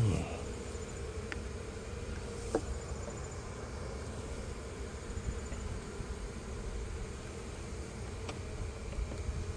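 Steady buzzing hum of a large, stirred-up honeybee colony packed into a gourd hive. A short, loud thump right at the start, and a faint click about two and a half seconds in.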